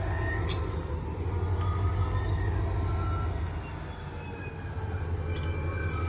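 Diesel locomotive engine running with a steady low drone, a thin high whine held over it and a couple of faint clicks.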